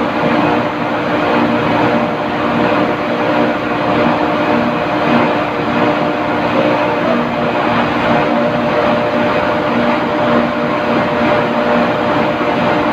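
Loud, steady machinery noise with a constant droning hum, unchanging throughout.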